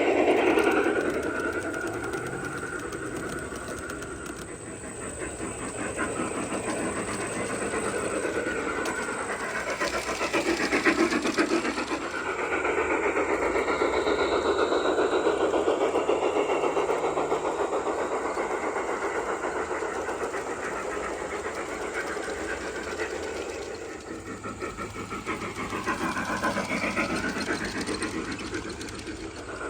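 Garden-scale model train running on its track, its wheels clicking steadily over the rails. It grows louder and softer several times as it passes close and moves away.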